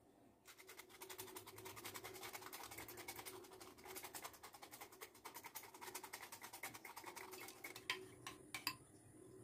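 A brush scrubbing a hard surface in quick, rapid back-and-forth strokes, then a few sharp clicks near the end.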